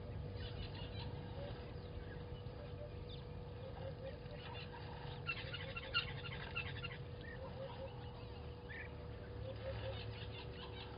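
Birds calling at a waterhole: a low three-note call repeats every couple of seconds, with brief bursts of higher chirping around the middle, over a steady low background rumble.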